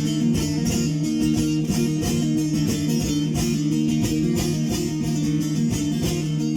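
Bağlama (saz) playing a semah melody on its own, with rapid plucked strokes over held low notes, in the instrumental interlude between sung verses.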